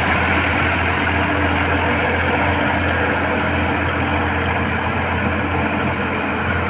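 Sonalika RX 55 Mileage Master tractor's diesel engine running steadily at an even speed.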